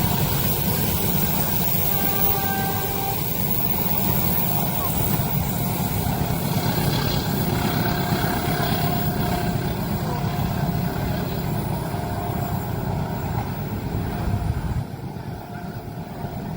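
A train passing over a level crossing: a loud, steady low rumble of wheels and running gear. The rumble drops away sharply near the end.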